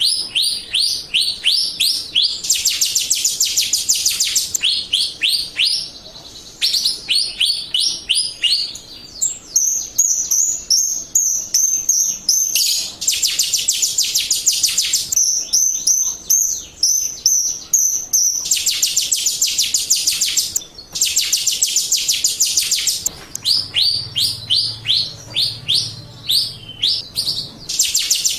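Jalak Rio starling song used as a lure recording. It is a rapid series of sharp, high, falling chirps that comes in bursts, alternating with dense, fast trilled passages, with a few brief pauses.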